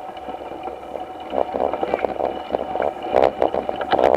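Riding noise from a moving bicycle: wind on the microphone with irregular rattling and clicking, which grow busier in the second half.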